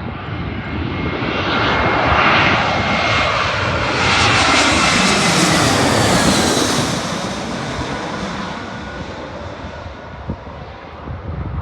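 Airplane on landing approach passing low overhead: its engine noise swells over the first few seconds, peaks, then fades away with a falling pitch as it goes by.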